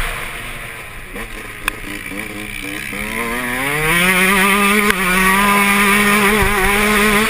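Yamaha YZ125 two-stroke motocross engine, first off the throttle and running low, then winding up in pitch about three seconds in and held at high revs under power.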